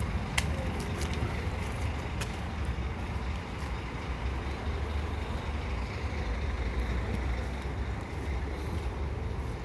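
Scania truck engine running with a steady low rumble, with a couple of light clicks in the first few seconds.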